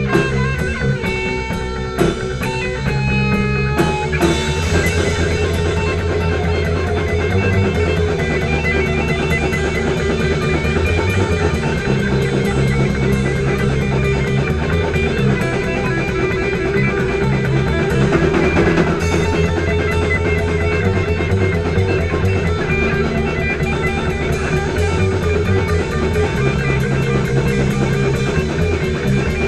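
Instrumental rock passage: guitars and a drum kit playing a steady beat, with no singing.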